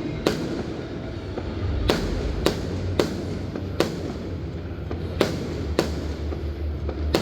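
Fireworks going off: about ten sharp bangs at uneven intervals, roughly one a second, over a continuous low rumble.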